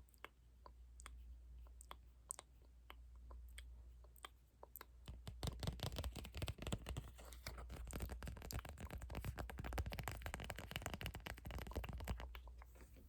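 Close-miked ASMR trigger sounds: scattered small clicks and taps, turning about five seconds in into dense, rapid crackling and scratching that stops shortly before the end.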